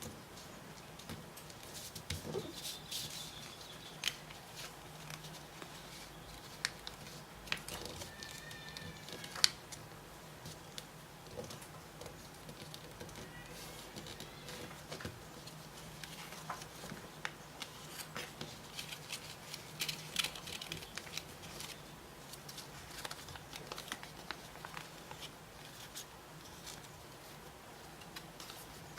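Paper being folded and creased by hand: irregular light crinkles, rustles and small taps, over a faint steady low hum.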